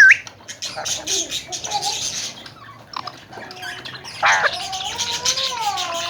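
Alexandrine parakeets squawking harshly and giving sliding whistled calls: a rising-and-falling whistle at the start, a run of screeches, then another harsh squawk about four seconds in followed by long gliding whistles.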